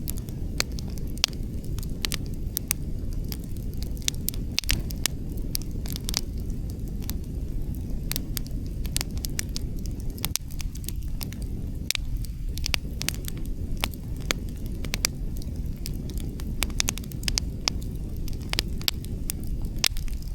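Outdoor wood fire burning: burning logs crackle with many sharp, irregular pops, over a steady low rushing noise.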